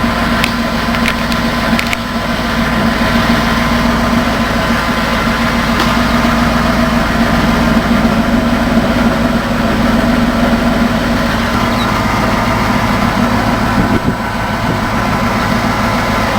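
1992 Ford Crown Victoria's 4.6-litre V8 idling steadily, a couple of minutes after a cold start, with a few light clicks in the first couple of seconds.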